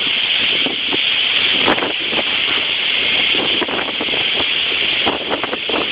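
Typhoon wind blowing hard with rain, a steady rushing noise broken by irregular gusts buffeting the microphone.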